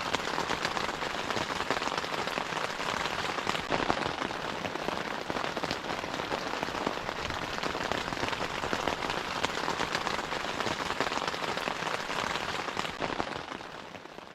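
Steady rain, a dense patter of many fine drops, fading out near the end.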